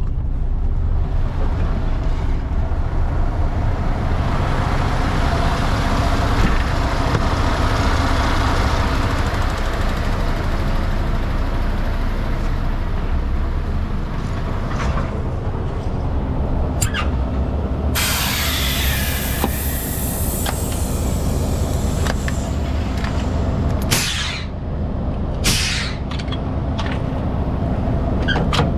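MAN TGS 470 hp truck's diesel engine running steadily under load. About two-thirds of the way through there is a loud hiss of released air lasting about two seconds, followed by two short hisses a little later.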